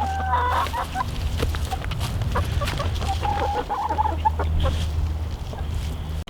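Chickens clucking close by, a string of short calls through the whole stretch, over a steady low rumble.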